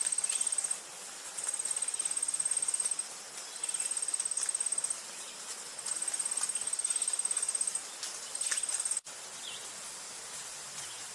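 An insect trilling high and fast in repeated bursts of a second or two with short pauses between, over a steady outdoor hiss. About nine seconds in the sound cuts abruptly and only a steady hiss remains.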